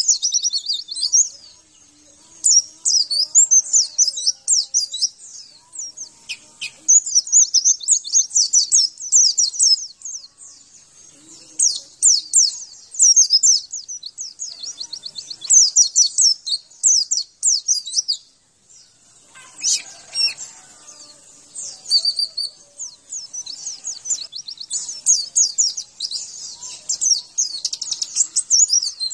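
Pleci (white-eye) singing a fast, high twittering song in long bursts of rapid notes, broken by short pauses.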